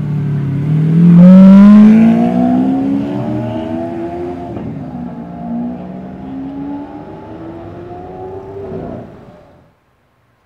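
Lamborghini Aventador Roadster's V12 with factory sport exhaust accelerating hard, its pitch climbing steeply and at its loudest about a second in. The pitch drops briefly at a gear change a few seconds later, then climbs again as the sound fades away, cutting off just before the end.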